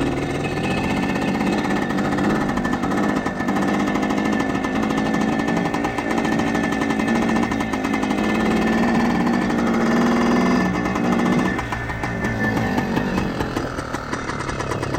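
1976 Kawasaki KT250's two-stroke single-cylinder engine running steadily as it warms up, its note changing about eleven seconds in.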